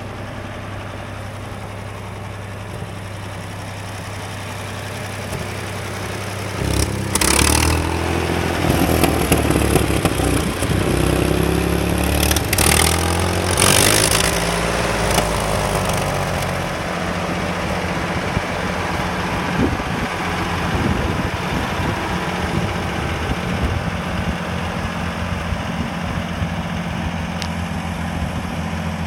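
Ford 2110 LCG tractor engine running at a steady low speed, then revved up and down several times, and then running steadily at a higher speed.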